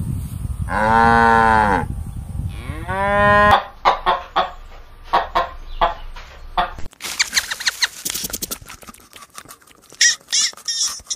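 A cow mooing twice in long, drawn-out calls, then chickens clucking in short repeated notes that turn quicker and higher-pitched in the second half.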